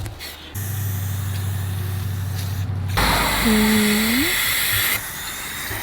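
Aerosol spray-paint can hissing over a steady low hum, then a louder hiss for about two seconds, with a brief tone that rises at its end partway through.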